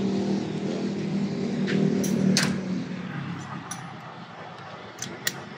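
A 1994 Toyota Corolla's engine idling steadily, fading out about three seconds in. A few sharp clicks come near the middle and again near the end.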